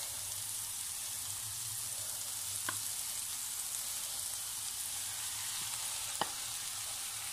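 Onion, tomato and spice masala sizzling steadily in a pan over medium-low heat, with two light knocks of a wooden spoon as mashed potato is scraped from a ceramic bowl into it.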